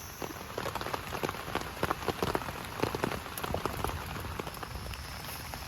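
Heavy rain falling, with many separate drops striking a surface close by over a steady hiss of rain.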